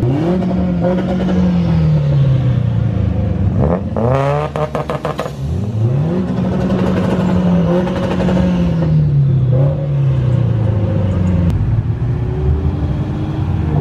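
Car engines revving as cars drive into a car meet. The pitch climbs and falls several times: once at the start, a sharp rev about four seconds in, and a longer climb from about six seconds that drops off near ten seconds.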